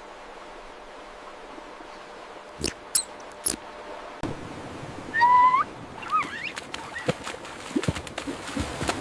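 A bird calling twice over a steady hiss: a longer call that hooks upward about five seconds in, and a shorter one a second later. Scattered sharp clicks and taps come before and after the calls.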